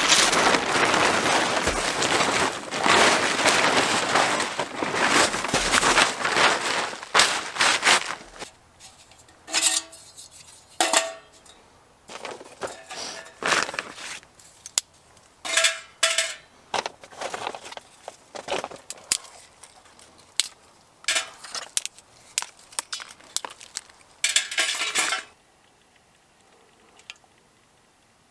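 Camping gear being handled: about eight seconds of steady rustling and crinkling, then scattered knocks and light clinks, which stop near the end.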